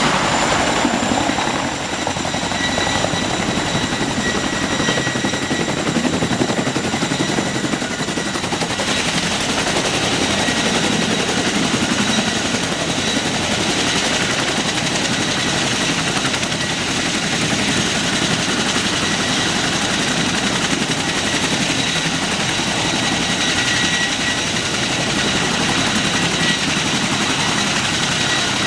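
Helicopter running close by: a steady loud rapid rotor chop with a high whine from the turbine.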